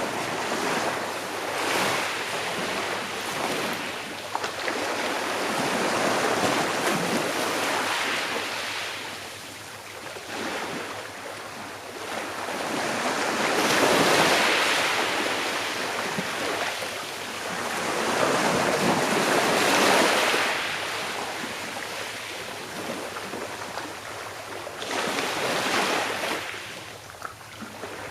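Sea waves washing onto the shore, the surf swelling and fading every five or six seconds.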